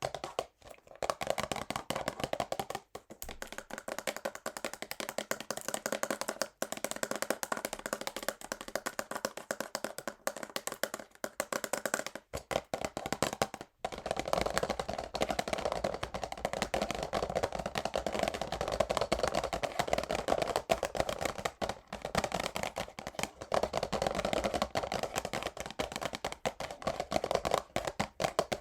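Fingernails tapping fast and hard on a cellophane-wrapped cardboard perfume box: a dense, rapid run of clicky taps with a couple of brief pauses.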